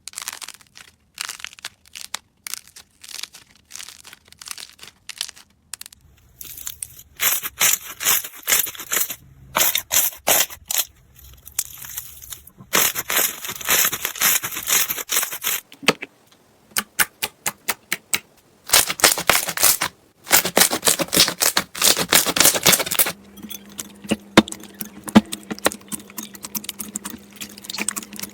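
Slime being squeezed and stretched by hands, making sticky crackling and popping clicks in irregular bursts, thickest in a few stretches of several seconds each.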